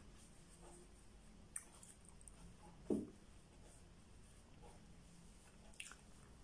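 Faint mouth sounds of someone eating: quiet chewing with a couple of small clicks. One short, soft thump about three seconds in is the loudest sound.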